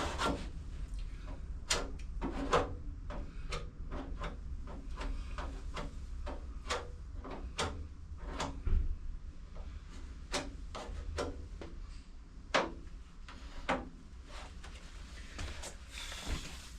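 Plastic spreader scraping body filler onto a car's front valance panel: a run of short, irregular scrapes and taps, one or two a second, over a low steady hum.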